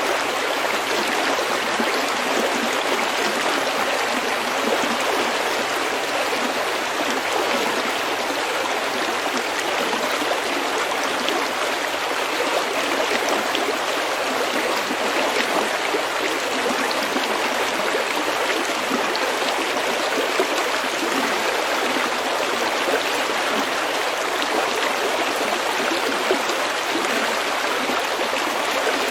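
Snowmelt stream flowing over pebbles: a steady babbling rush of water with small gurgles and splashes, unchanging throughout.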